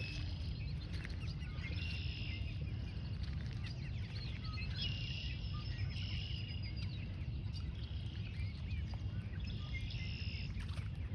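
Many small birds chirping and peeping in short, high calls over a steady low rumble.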